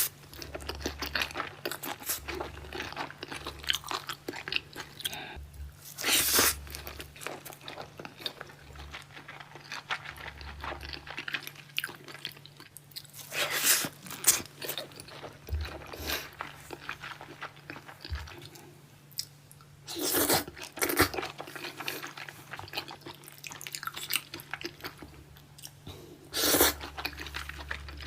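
Close-miked chewing of salmon sushi: a steady run of small wet mouth clicks and smacks, with four louder bites or bursts of chewing spaced about six seconds apart.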